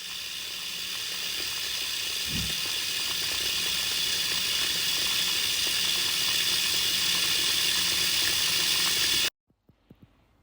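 Food frying in a pan: a steady sizzling hiss that slowly grows louder, with a soft low bump about two seconds in, cut off abruptly about nine seconds in.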